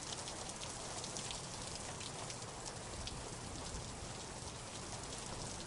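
Steady rainfall: an even hiss of rain with many distinct, sharp drop hits scattered through it.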